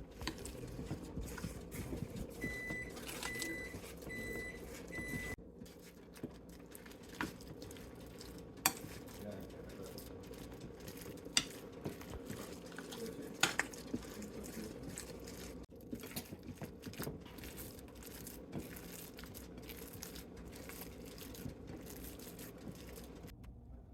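Kitchen work noises over a steady low hum: scattered clicks and knocks, with four short, evenly spaced electronic beeps about three to five seconds in.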